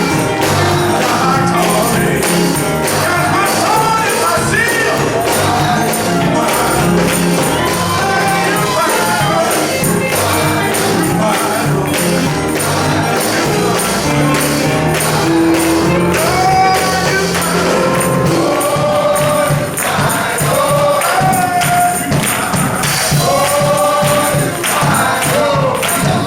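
Male gospel chorus singing with a band over steady bass notes and a constant high percussion shimmer.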